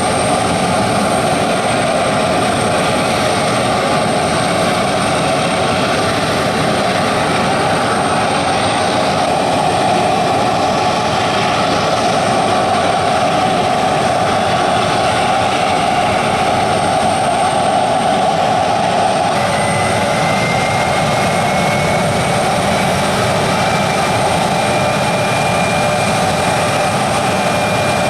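Regional jet's turbofan engines running steadily, a loud roar with a thin high whine over it. About two-thirds of the way through, a tone slowly rises in pitch as the engines spool up.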